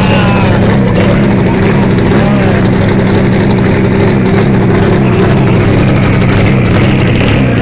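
Race car's engine idling close by, loud and steady with a deep even rumble and no revving.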